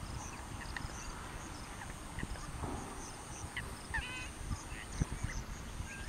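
Wetland birds calling: scattered short, high calls, with one louder honking call about four seconds in, over a low rumble.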